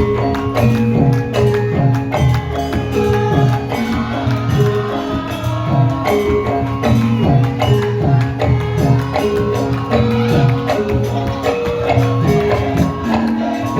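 Javanese gamelan music for lengger dance: repeated bright metallophone notes over drum strokes that drop in pitch, in a steady, lively beat.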